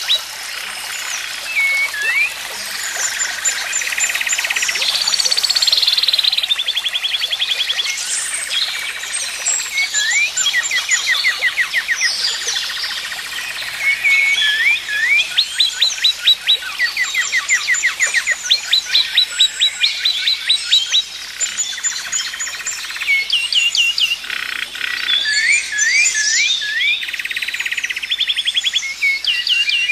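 Several songbirds singing together in a dawn-chorus-like mix, with rapid repeated trills and short rising chirps overlapping throughout.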